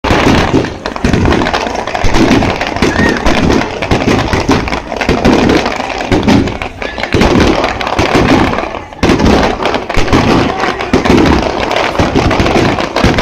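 Aerial fireworks bursting in rapid succession: a dense run of booms and crackles, with a brief lull about nine seconds in.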